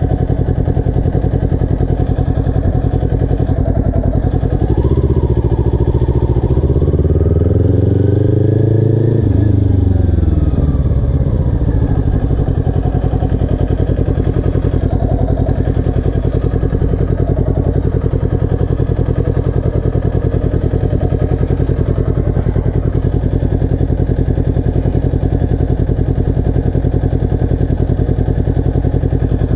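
Motorcycle engine idling, then revving up as the bike accelerates for about five seconds, and falling back to idle as the rider shuts off for a quick-stop braking manoeuvre.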